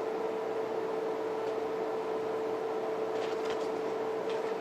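Steady background hum: one constant mid-pitched tone over an even hiss, like a running appliance or fan, with a few faint, soft handling noises in the last half.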